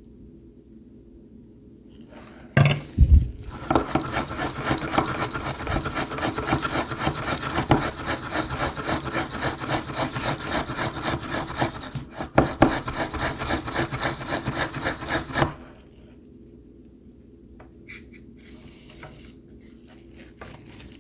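Rapid back-and-forth rubbing or scraping strokes starting about two and a half seconds in and stopping abruptly about thirteen seconds later, over a steady low hum.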